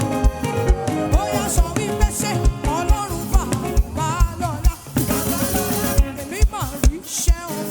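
Live worship band music: a steady kick-drum beat of about two strokes a second under sustained keyboard chords, with a wavering lead melody over it.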